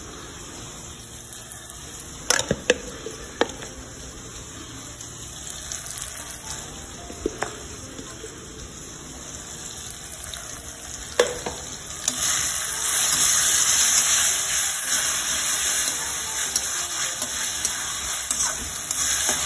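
Onions, tomatoes and green chillies frying in oil in a steel kadhai, with a few sharp utensil knocks in the first part. About twelve seconds in, the sizzle gets much louder and stays up as the masala is stirred with a spatula.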